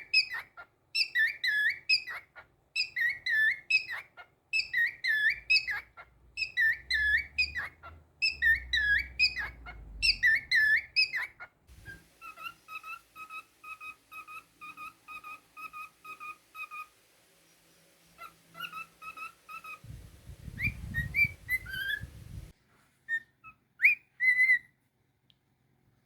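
Cockatiel whistling a tune: a short swooping phrase repeated about seven times, then a run of quick, evenly spaced notes, ending in a few scattered chirps.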